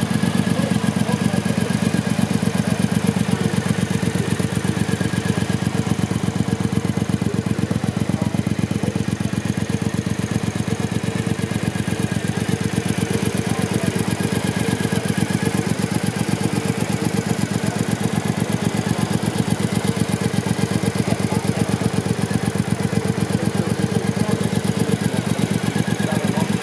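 A 2010 Triumph Bonneville America's 865 cc parallel-twin engine idling steadily, with an even beat of exhaust pulses.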